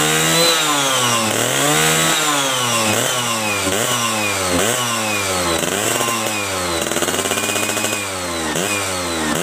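Yamaha F1ZR's 110 cc two-stroke single-cylinder engine revved up and down over and over, its pitch rising and falling about every second. The exhaust note carries the hoarse, snoring intake growl ('ngorok') made by the drilled-out air filter box.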